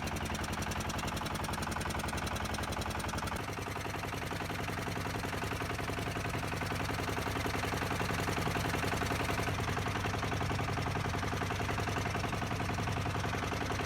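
Fishing boat's engine running steadily with a fast, even knock. Its note shifts slightly about three and a half seconds in.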